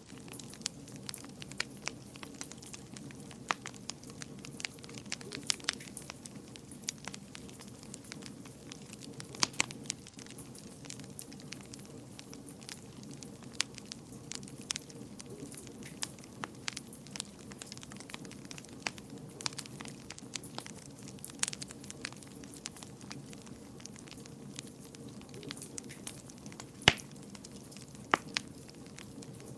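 Wood fire burning in a fireplace, with a steady low hiss under irregular crackles and pops; one sharp pop near the end stands out as the loudest.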